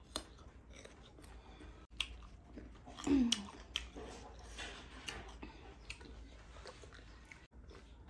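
Close-miked mouth sounds of a person chewing food, with soft wet clicks scattered throughout. About three seconds in there is a short, louder sound that falls in pitch.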